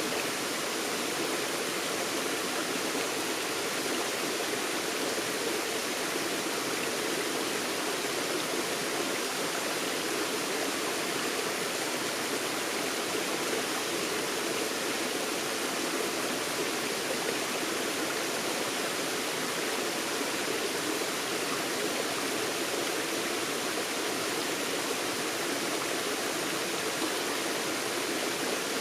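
Forest stream flowing and babbling, a steady rush of water with no breaks.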